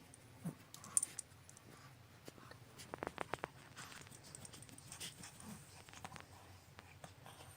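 Faint small sounds from a dog: a short, soft, falling cry about half a second in, and a quick run of soft clicks about three seconds in.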